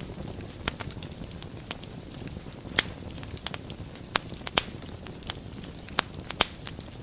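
Wood fire burning in a fireplace: a steady low rumble of the flames with irregular sharp crackles and pops, a few louder snaps about three seconds in and again near the end.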